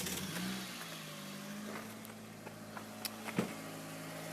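Mitsubishi Lancer's 1.8 4G93 GDI four-cylinder engine just caught on a cold start, flaring briefly and then settling into a steady idle with no hydraulic lifter tapping, which is taken for the additive having cured the lifter noise. A couple of sharp clicks sound about three seconds in.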